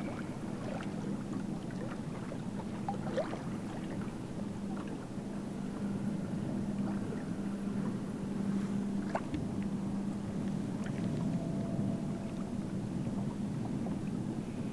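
Bass boat on the water with a steady low hum, water and wind noise, and scattered small clicks and knocks.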